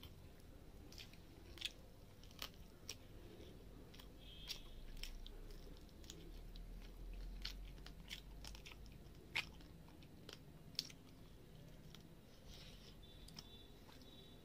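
Close-miked eating: a person chewing a mouthful of rice and fried fish, with irregular sharp wet mouth clicks and smacks.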